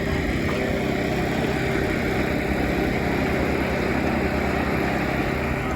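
An engine running steadily at idle: a low, even drone.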